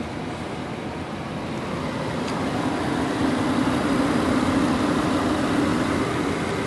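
2010 Infiniti EX35's 3.5-litre V6 engine running, growing louder over the first three seconds or so, then holding steady.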